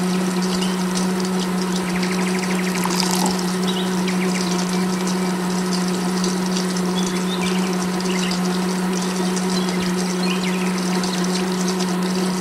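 Small electric motor running with a steady hum, with light clicks and rattles over it.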